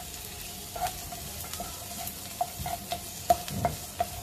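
Sliced onions, cashews and whole spices sautéing in ghee and butter, stirred with a wooden spatula in a frying pan: a steady sizzle with scattered clicks of the spatula against the pan.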